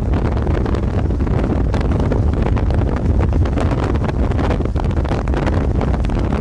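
Strong storm wind buffeting the microphone near a tornado: a loud, steady rush with a heavy low rumble.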